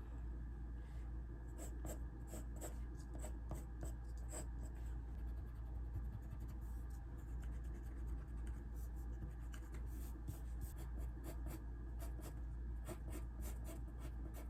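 Sketching on sketchbook paper: quick, repeated scratchy drawing strokes, over a steady low hum.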